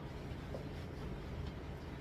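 Low steady room hum with faint rustling and a couple of small clicks.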